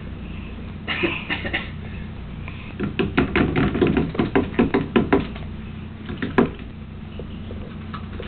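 A toddler blowing raspberries: a few short lip sputters about a second in, a fast run of about a dozen sputters in the middle, and one last sharp one near the end.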